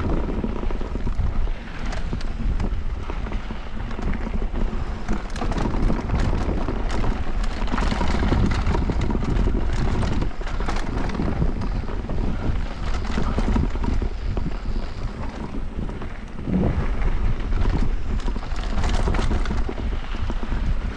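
Wind buffeting an action camera's microphone on a fast downhill mountain-bike run, with the bike's tyres, chain and frame rattling and knocking over rough trail.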